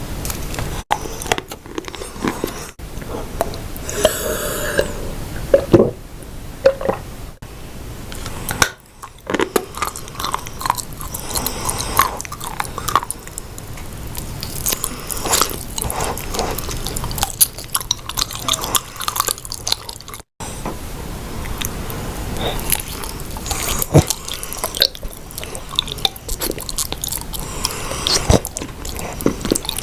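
A person biting and chewing dry edible clay close to the microphone: crisp, irregular crunches and crackles as the chunks break up in the mouth.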